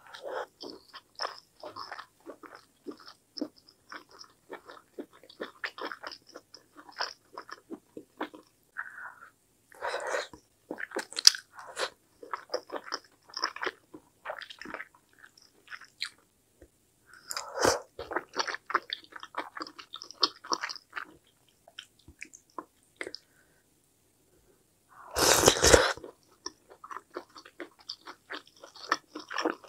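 Close-miked ASMR eating sounds of mala tteokbokki: wet chewing and biting with many small mouth clicks and smacks, in irregular spells with short pauses. A louder rush of noise lasting about a second comes near the 25-second mark.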